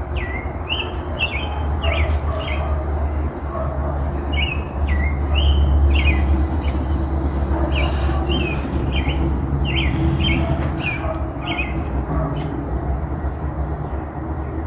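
Songbirds chirping, many short repeated notes one after another, over a steady low rumble.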